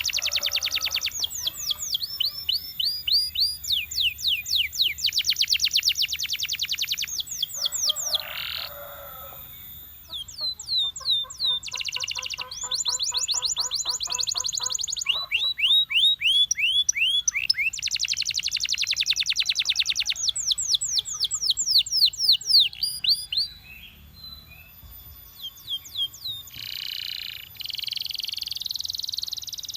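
Belgian canary singing a long song of fast trills, each trill a rapid string of repeated sweeping notes, switching to a new trill every second or two. After a short lull near the end it goes into a steadier, buzzier held phrase.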